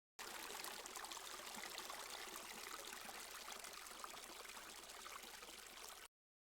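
Wood fire burning in a Solo Stove Ranger fire pit: a dense, steady crackle and hiss that cuts in just after the start and stops abruptly near the end.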